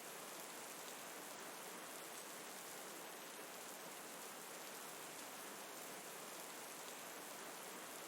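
Steady rain blended with flowing water into a soft, even hiss.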